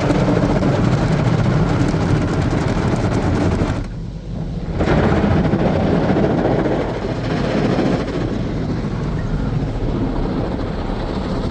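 WashTec SoftLine 2 tunnel car wash at work: rotating wash brushes and water spray beating against the car, a dense, steady noise that drops away briefly about four seconds in.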